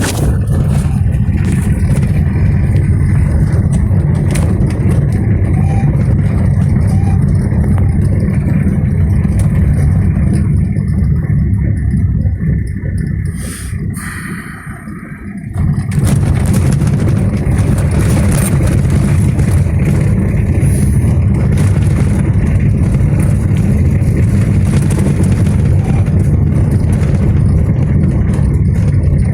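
Toyota Corolla's 1C four-cylinder diesel engine running steadily under way, a loud low rumble. About halfway through it quietens for two or three seconds, then comes straight back to full level.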